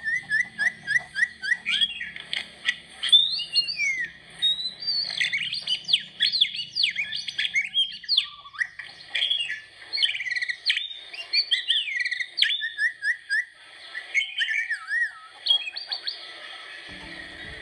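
Small birds chirping and singing in quick, varied high notes with rising and falling glides. It opens with a run of short, evenly spaced chirps.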